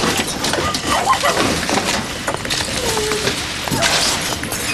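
Indistinct voices and scattered clattering and knocking, like debris being shifted, over a steady background noise.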